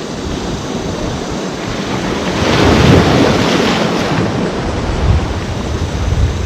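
Ocean surf: a wave breaks and washes loudest about two and a half to four seconds in, over a steady low rumble of sea and wind buffeting the microphone.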